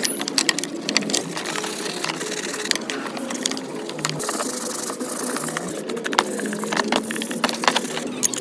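Irregular clicks, knocks and scraping of hand tools working on metal parts.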